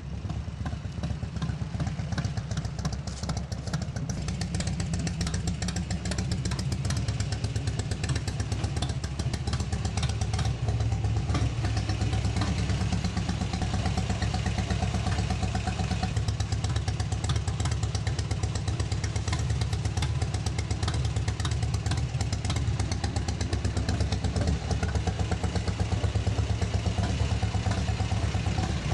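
Harley-Davidson touring motorcycle's V-twin engine running steadily with a fast, even pulse.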